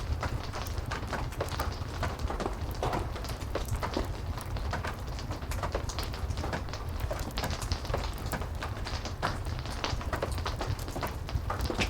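Steady heavy rain with a constant low rumble, mixed with the irregular crackling and popping of a wood fire in a fireplace.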